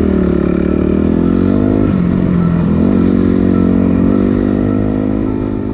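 Dirt bike engine pulling away on a trail, revving up and down with the throttle several times, then holding a steadier note that fades slightly near the end.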